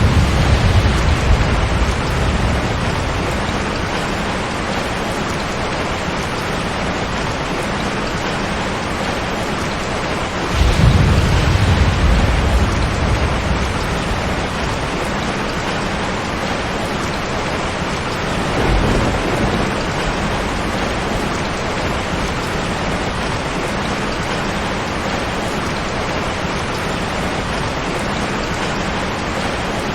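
Steady heavy rain, with low rolls of thunder swelling and fading three times: one right at the start, the loudest about a third of the way in, and a weaker one shortly after the middle.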